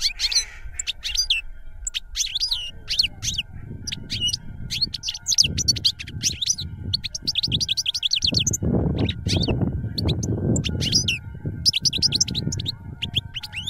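Many small birds chirping, a dense run of short, quick, high chirps throughout. A low rumble swells under them from about eight to ten and a half seconds in.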